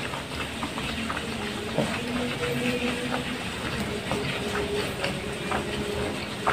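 A person chewing a mouthful of kebab wrap with the mouth closed, with wet mouth clicks and smacks coming at an uneven rhythm over a steady background hiss.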